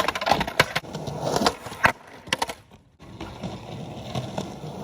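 Skateboard clattering on pavement: several sharp clacks and slaps of the board in the first two and a half seconds, then wheels rolling on the ground.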